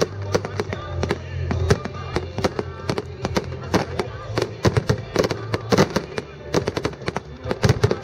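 Fireworks bursting in rapid, irregular bangs and crackles, several a second, with music playing underneath.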